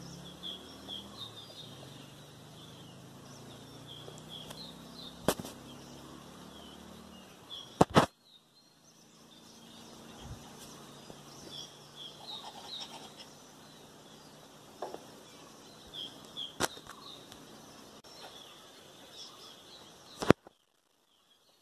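Outdoor ambience with small birds chirping repeatedly in short, high calls. A low steady hum sits underneath for the first third or so, a few sharp clicks cut in, and the sound drops out briefly about a third of the way in and again near the end.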